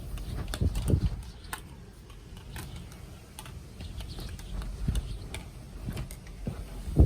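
Typhoon wind and rain: irregular sharp taps and clicks over gusty low rumbles, with the strongest gusts about a second in and near the end.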